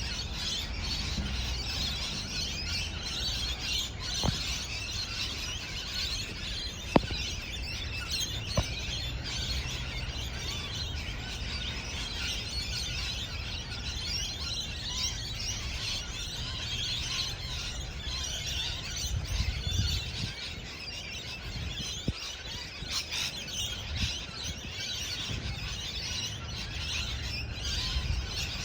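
A group of parrots chattering and chirping continuously, many birds calling at once, with a few sharp clicks or taps among them.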